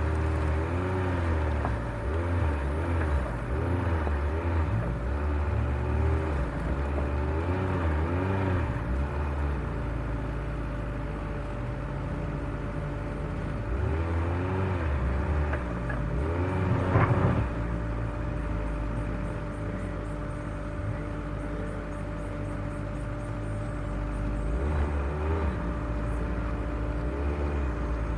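Off-road vehicle's engine working over a rough trail, its pitch rising and falling again and again with the throttle over a low rumble, with one sharp knock about seventeen seconds in.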